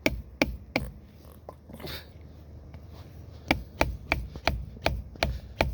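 Sharp repeated knocks, about three a second, pausing for a couple of seconds in the middle and then starting again.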